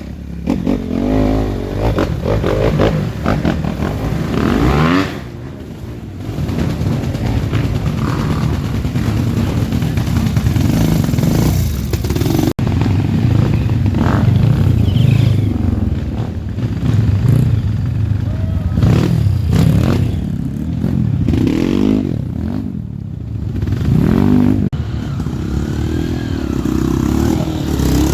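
Off-road trail motorcycle engines revving hard through a marsh, the pitch rising and falling again and again as the bikes labour through the bog.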